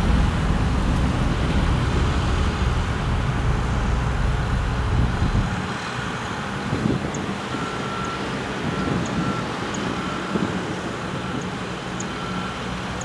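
Engine of heavy construction machinery running steadily with a deep hum that eases off about five seconds in. Later a faint beeping repeats several times.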